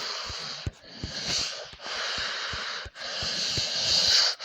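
Breathy hissing whooshes from a person, in four stretches of about a second each with short breaks between.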